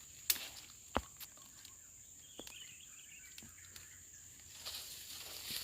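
Steady high-pitched drone of forest insects, with a few sharp clicks about a second in and a faint chirp midway.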